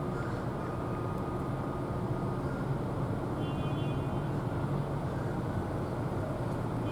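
Steady low rumble of outdoor ambience, with a brief high-pitched tone about three and a half seconds in.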